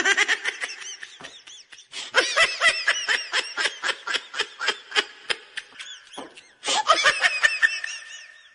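A person laughing hard in fast, high-pitched peals of repeated bursts, pausing briefly for breath about two seconds in and again near six seconds.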